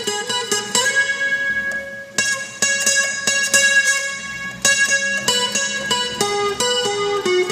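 Instrumental music played on a guitar-like plucked string instrument: single notes picked one after another, each ringing on as it fades, the notes coming faster near the end.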